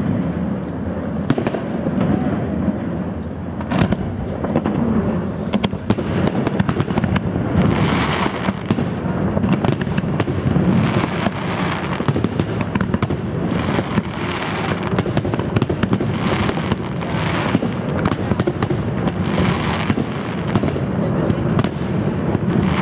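Fireworks display: aerial shells bursting in quick succession, with many sharp bangs following one another without a break.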